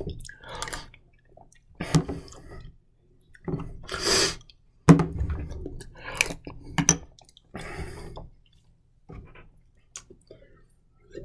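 A person eating mustard from a bowl: scattered short wet mouth sounds and clicks, with pauses between them.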